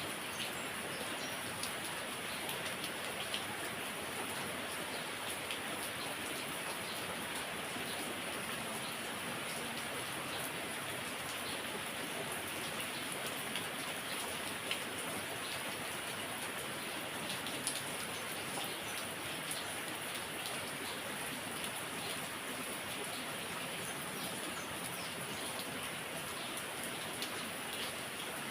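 Heavy rain falling steadily, with scattered individual drops ticking out above the constant hiss.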